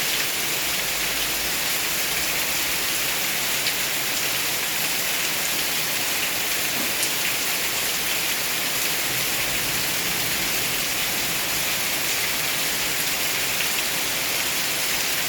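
Steady rain falling, an even dense hiss with a few faint sharper drop ticks.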